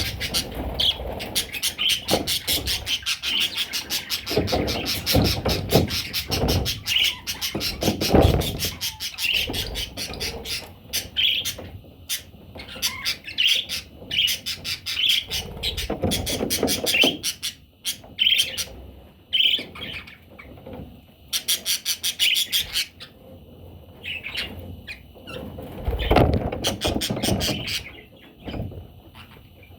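Parrot chicks chirping in many short, high, repeated calls, mixed with rustling and scuffing noises.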